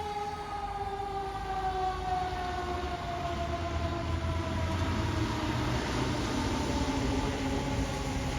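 A fire truck's mechanical siren winding down, its wail falling slowly and steadily in pitch, over the low rumble of the truck's engine.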